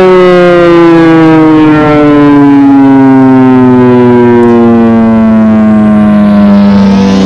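ACA Hurricane electromechanical warning siren winding down, its wail falling slowly in pitch, then beginning to wind back up near the end.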